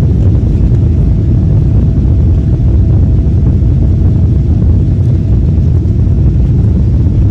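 Loud, steady low rumble of a jet airliner's engines and airflow heard inside the cabin during takeoff, with a faint steady hum above the roar.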